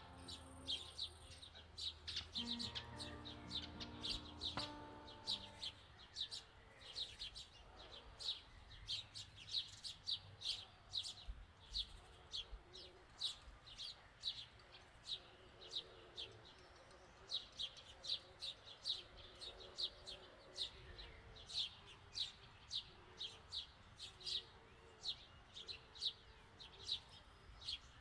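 A small bird chirping over and over: short, high notes at about two or three a second, kept up without a break.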